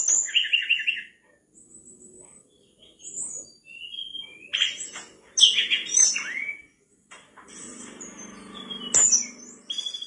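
Mangrove blue flycatcher singing: a run of short, high, clear whistled phrases and quick trills with brief pauses between them.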